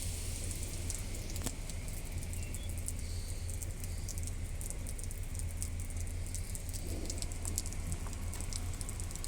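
Water dripping and pattering in a car wash: scattered light ticks over a steady low hum.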